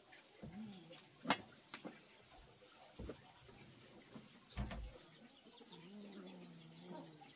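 Faint low bird calls: a short one about half a second in and a long held one near the end. Several sharp knocks come in between, the loudest about a second in.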